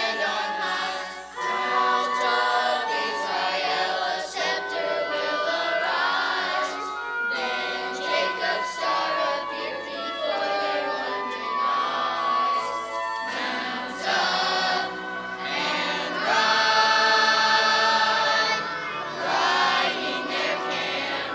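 Choir singing a Christmas song about the wise men, with musical accompaniment.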